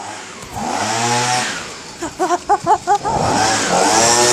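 Small petrol engine revving up twice, with a string of short throttle blips between the two revs.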